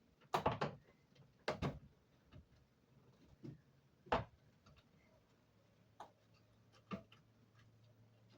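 Scattered knocks and clicks from handling and fitting a window air conditioner in its window frame. The loudest come in the first two seconds and about four seconds in, with fainter ones later.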